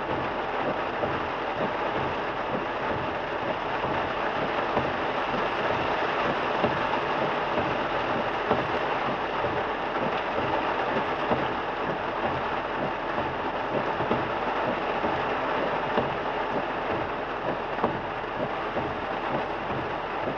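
Heavy downpour on a moving car: a dense, steady hiss of rain on the car and tyres on the wet road, with a few sharper ticks of drops striking.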